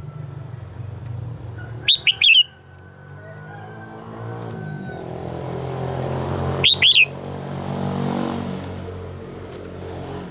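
Red-whiskered bulbul singing two short, loud phrases of quick whistled notes, about two seconds in and again about seven seconds in. A vehicle engine hums underneath, growing louder toward the middle.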